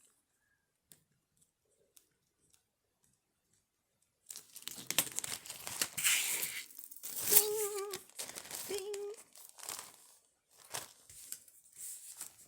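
Near silence for about four seconds, then plastic packaging crinkling and rustling as a piece of jewelry is handled and unwrapped. Two short hummed notes come through about halfway.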